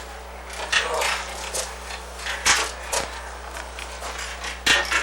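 A few scattered knocks and bumps from a heavy basket being handled and carried, with a short exclamation near the start, over a steady low electrical hum.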